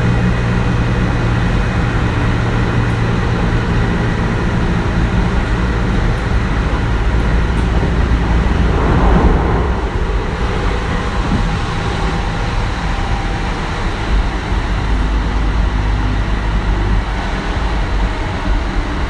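Kintetsu 1420 series EMU under way, its Mitsubishi GTO-VVVF inverter and traction motors giving steady low tones under wheel-and-rail running noise, heard from inside the car. A brief rush of noise rises about nine seconds in; the run is a little quieter after it.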